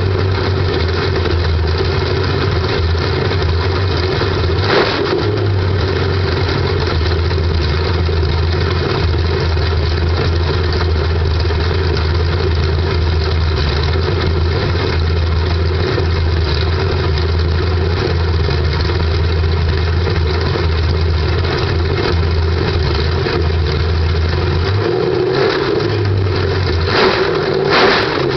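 1979 Corvette L48 350 small-block V8 running steadily on its first start-up after restoration, out of the car. The engine note changes briefly about five seconds in, and a few quick throttle blips come near the end.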